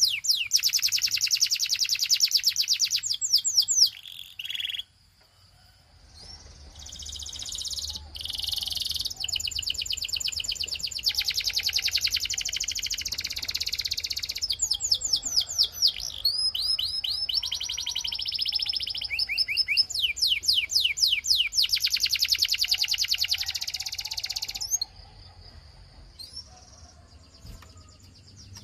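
Canary singing: long, fast high-pitched trills and rolls of rapidly repeated notes, broken by short pauses. There is a brief silence about five seconds in, and the song thins out near the end.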